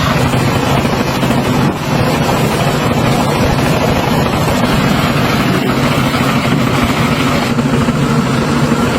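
Tractor engine running steadily, with a brief dip in level about two seconds in.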